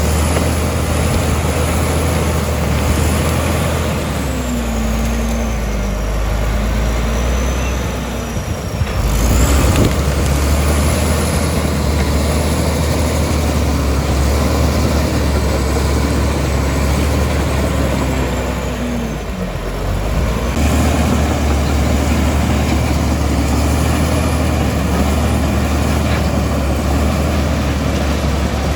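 Komatsu D65E bulldozer's diesel engine running hard while it pushes. Twice its pitch sags as the blade loads up, then picks back up sharply.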